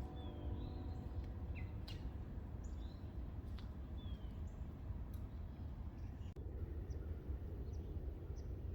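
Scattered short bird chirps and brief sliding calls over a steady low outdoor rumble.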